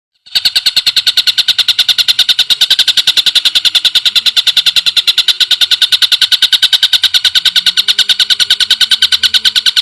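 A bird-song masteran track: a loud, rapid, even trill of about ten pulses a second, high-pitched and unchanging, starting abruptly just after silence.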